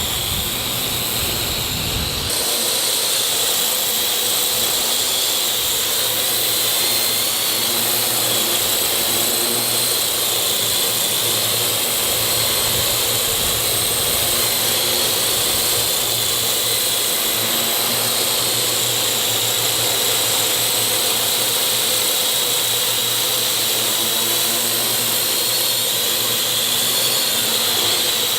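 Parrot quadcopter drone's electric motors and propellers whining steadily in flight, several high steady tones over a constant buzz. Wind rumbles on the microphone for the first two seconds.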